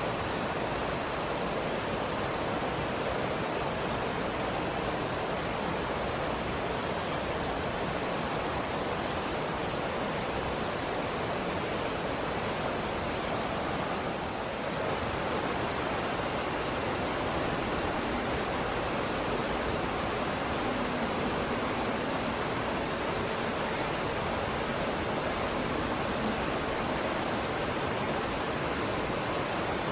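Steady summer insect chorus, high-pitched, over a low wash of background noise; about halfway through, a still higher layer of the chorus gets louder and stays on.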